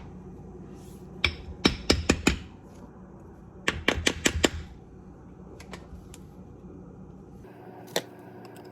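Hammer striking a 1978 Ford power steering box during disassembly: two quick runs of about five sharp taps each, then a few lighter taps and one last strike.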